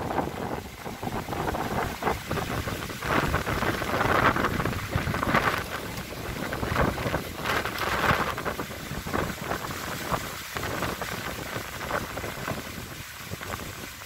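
Strong gusty storm wind blowing without rain, rushing in surges every second or two and easing off near the end, with wind rumbling on the microphone.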